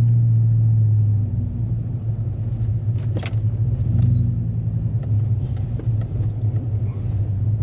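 Pickup truck driving, heard from inside the cab: a steady low engine and road drone that eases slightly after about a second. A single sharp click comes about three seconds in.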